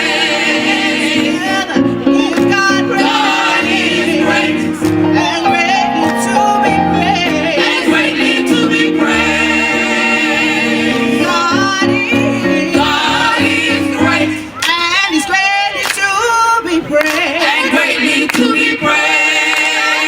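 Gospel choir singing in harmony with low accompanying notes beneath. About fifteen seconds in, the accompaniment briefly drops away and a single voice slides through a run before the full sound returns.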